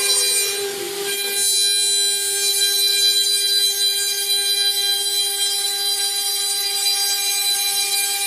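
High-speed spindle of a five-axis CNC vertical machining centre whining at a steady pitch, with a short burst of noise about half a second to a second in.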